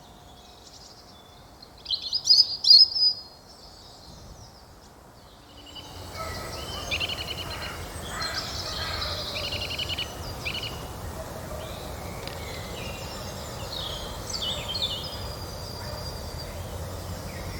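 European robin singing loud and clear, its loudest phrases about two to three seconds in. From about six seconds on, several woodland birds keep singing and calling together over a steady background hiss.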